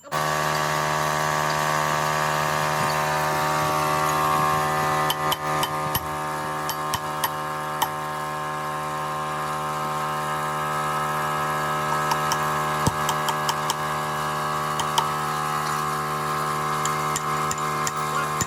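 A power tool motor running steadily at an even pitch, with scattered sharp ticks over it.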